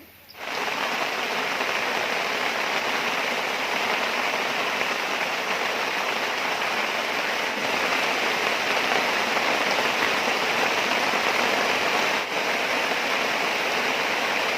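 Steady rain falling, an even rushing hiss that starts abruptly about half a second in.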